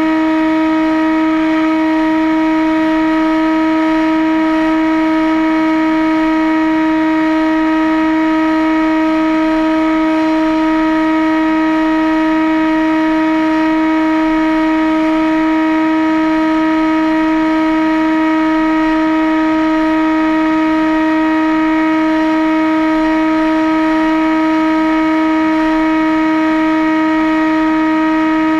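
Electric motor and propellers of a radio-controlled aircraft running at a constant speed: a steady, unbroken hum held at one pitch, over rushing noise.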